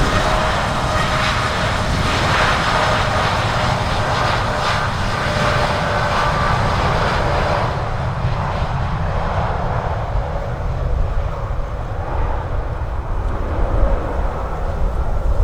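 Boeing 787-8 jet airliner's turbofans at takeoff power: a steady jet roar with whining fan tones. After about eight seconds it fades and loses its high end as the aircraft moves away. Strong wind rumbles on the microphone throughout.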